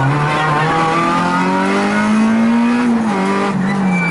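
Rally car engine heard from inside the cockpit under hard acceleration, its revs climbing steadily for nearly three seconds, then falling and dipping again near the end, over loud road and cabin noise.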